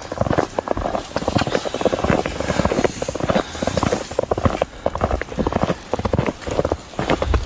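Footsteps crunching through fresh snow, a steady walking rhythm of crisp, crackling crunches.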